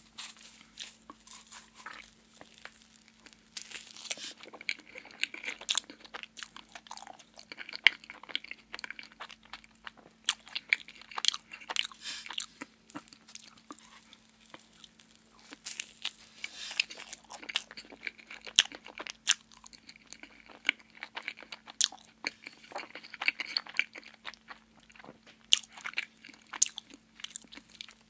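Close-miked eating of a soft cream-filled donut: biting and chewing with wet mouth sounds and many sharp clicks, coming in bouts with short lulls, over a faint steady hum.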